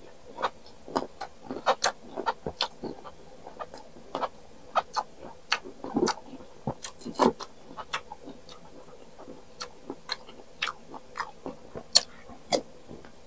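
Close-up chewing of crisp unripe green mango slices: irregular sharp crunches and clicks, with two stronger ones about seven and twelve seconds in.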